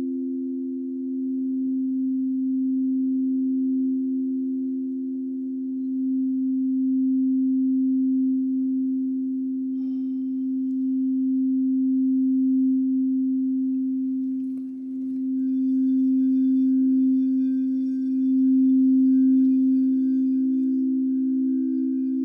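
Singing bowls sounding two sustained, pure low tones together, swelling and ebbing slowly in loudness as they are played for sound healing. A fainter, higher ringing joins about two-thirds of the way through.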